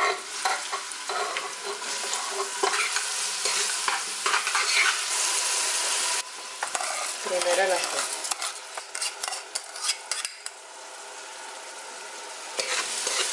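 Chopped onion and mashed garlic frying in hot oil in an aluminium pot, sizzling as the onion goes in, with a utensil stirring and scraping against the metal. The sizzle changes abruptly about six seconds in.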